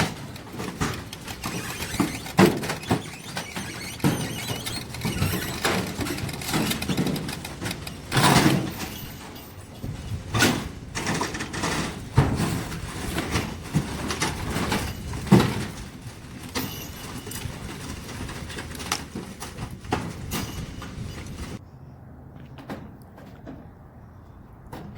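A building being torn down by a subcompact tractor: repeated crashes, cracks and creaking of the structure breaking apart, over the running tractor. Quieter for the last few seconds.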